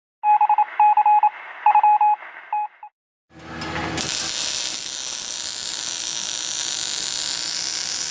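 Electronic beeping tones in short stuttering bursts, like telephone dial tones, for about three seconds. Then, after a brief silence, a loud steady hiss that fades out at the end.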